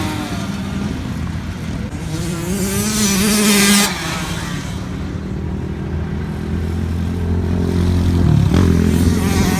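Motocross dirt bike engines revving: the pitch climbs to a loud peak about two to four seconds in, drops, then the engines run steadier and lower.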